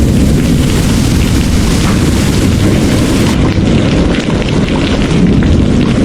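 Heavy rain pouring steadily over a deep, continuous rumble of rolling thunder. The highest part of the rain's hiss drops away about halfway through.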